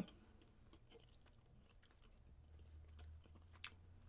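Faint close-up chewing of a frozen pecan Snickers bar, with small scattered mouth clicks; a low hum comes in about halfway through.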